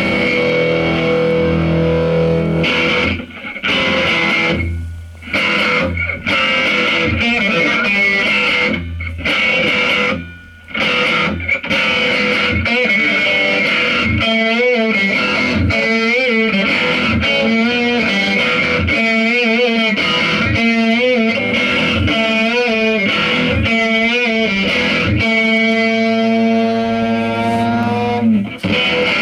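Electric guitar through effects pedals playing distorted, droning noise music. The dense sustained tones cut out briefly twice, take on a fast warbling wobble in pitch past the middle, and end in a gliding sweep.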